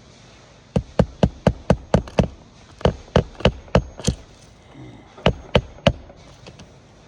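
Hammer driving roofing nails into a shingle: three quick runs of sharp strikes, about four a second, with short pauses between.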